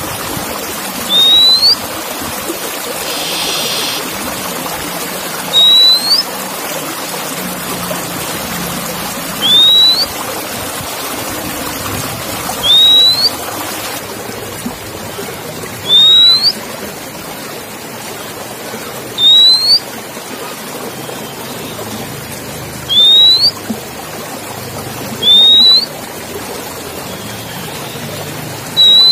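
Oriental magpie-robin (kacer) giving a short, loud upswept whistle over and over, about once every three to four seconds, with one brief buzzy call near the start. A steady hiss lies underneath.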